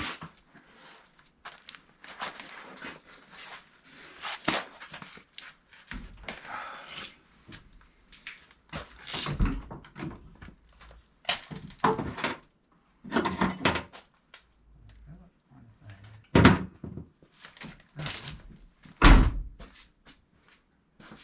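Irregular knocks, clanks and scrapes of hand tools and metal parts being handled and worked, with two louder thuds in the second half.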